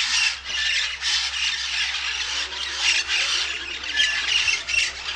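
A dense chorus of many birds squawking at once: a continuous mass of overlapping calls.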